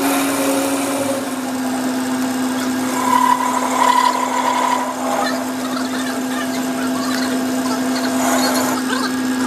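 A workshop machine's motor running with a steady hum, a higher whine rising over it for a couple of seconds in the middle, then the machine stops.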